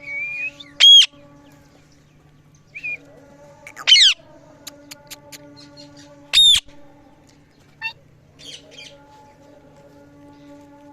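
A pet parrot calling: three loud, short squawking calls, the middle one sweeping upward, with softer chirps and a few clicks in between. A steady low hum runs underneath.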